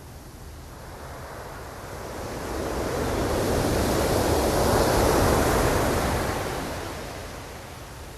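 Ocean surf: one wave rushing in, its noise swelling over a few seconds to a peak past the middle, then fading away.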